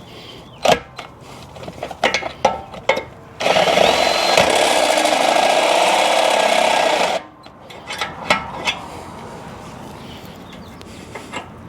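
Power drill drilling a hole, running steadily for about four seconds from a little past three seconds in. Clicks and knocks of tool handling come before and after it.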